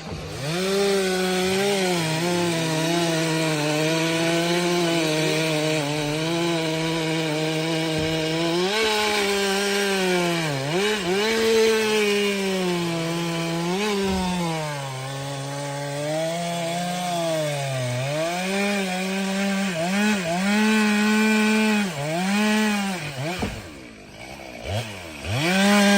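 Stihl MS 462 C-M two-stroke chainsaw at full throttle cutting through firewood. Its engine note sags repeatedly as the chain loads up in the wood, then recovers. Near the end it drops off briefly, then revs back up.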